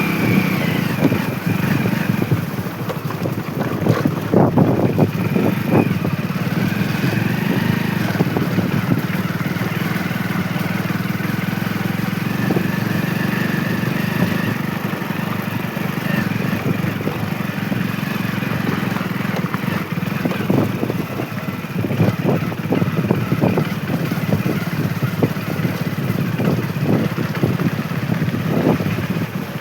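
Motorcycle engine running steadily while riding, with wind buffeting the microphone in irregular gusts.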